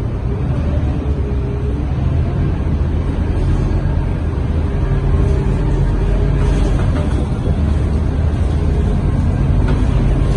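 Scania K230UB bus heard from inside while moving: the diesel engine runs with a steady low drone under road noise, and a faint whine rises and falls in pitch.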